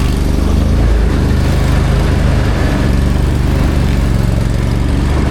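A vehicle's engine running steadily while driving, with a slight change in pitch about a second in.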